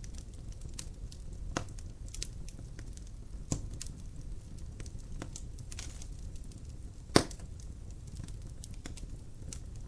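Wood fire in a fireplace crackling: irregular snaps and pops over a steady low rumble of the flames, with one sharp, louder pop a little after seven seconds in.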